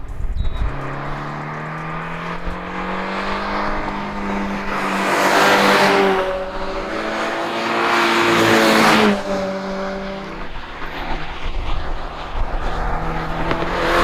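2022 GR86/BRZ's 2.4-litre flat-four running through a FactionFab catback exhaust with a large muffler, a mild, deep tone that is not raspy. It holds a fairly steady note and swells louder twice, around the middle.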